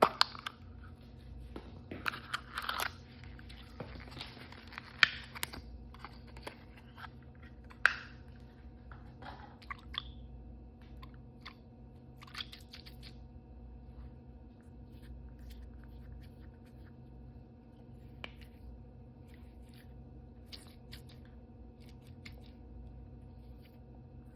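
Plastic toy packaging handled and opened by hand: crinkling and crunching in the first ten seconds or so, then scattered light taps and clicks.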